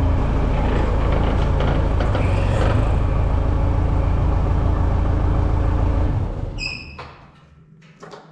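Sawmill engine running steadily, then dropping away sharply about six seconds in. A short high squeak follows, then faint clicks.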